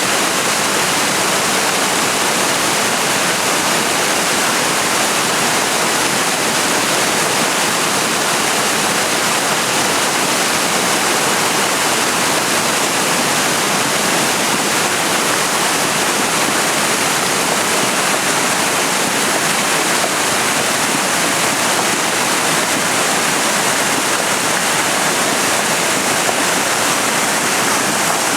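Small mountain waterfall splashing and rushing in a steady, loud hiss.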